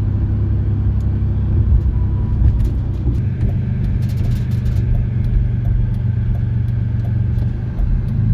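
Steady low drone of a car on the move, engine and road noise heard from inside the cabin.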